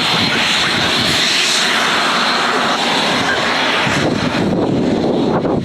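Jet airliner engines passing close, a loud steady rush of noise whose higher hiss fades away about four seconds in.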